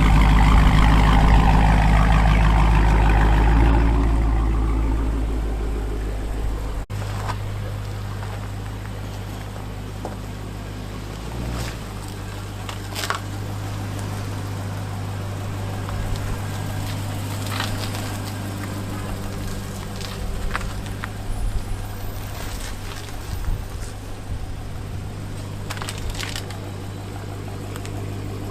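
Car engine running, loud for the first few seconds, then settling to a steady low hum with a few scattered clicks and knocks.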